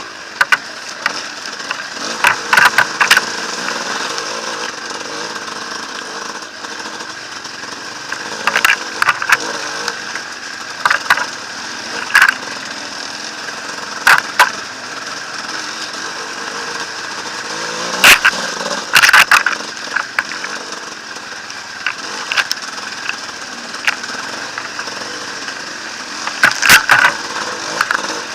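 Enduro dirt bike engine running steadily, broken by sharp clatters and knocks at irregular intervals, the loudest clusters a little past the middle and near the end.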